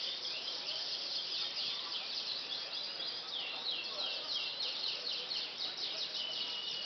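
Domestic canaries singing: a dense, rapid song of quick descending chirps repeated several times a second, with a held high whistle near the end, over faint background noise.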